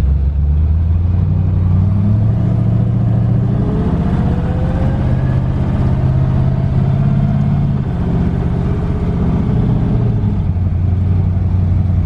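Twin-turbo LS V8 engine in a Fox body Mustang pulling away, its note rising from about a second in, with a thin rising whine over the rumble. It eases off after about eight seconds and settles back to a lower steady rumble.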